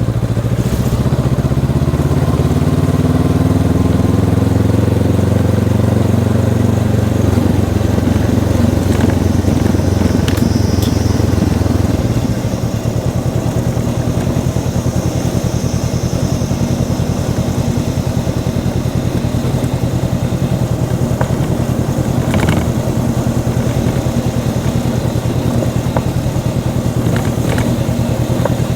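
Honda CB500X's stock parallel-twin engine under way, rising in pitch as the bike accelerates over the first several seconds, then holding steady. About twelve seconds in it eases off and settles into a steady cruise.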